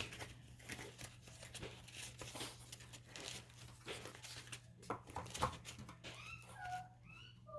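Light paper handling, soft rustles and taps, over a steady low hum. About six seconds in come a few short, gliding high-pitched calls from an animal.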